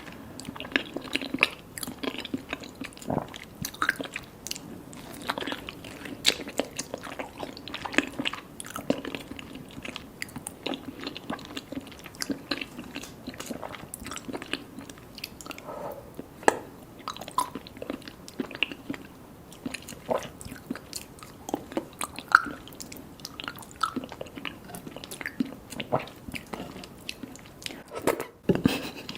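Close-up eating sounds of someone chewing and biting into mango mochi with popping mango boba: many small, irregular wet clicks and smacks.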